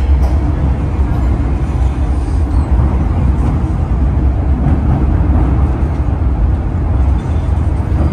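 MTR M-Train electric metro train running, heard from inside the car: a steady, loud low rumble with running noise from the wheels and track.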